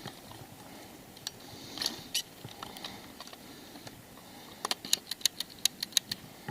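Sharp clicks: a few scattered ones, then a quick run of about seven at roughly four a second near the end.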